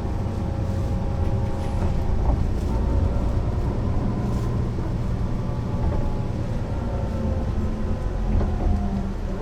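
Mercedes-Benz O 405 NÜ bus driving, its diesel engine and drivetrain running with a steady low rumble and a faint whine that shifts slowly in pitch.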